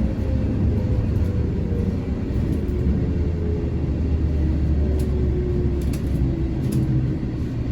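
JNR-era electric train running, heard from inside: a steady low rumble with a motor whine that falls slowly in pitch as the train slows, and a few brief clicks in the second half.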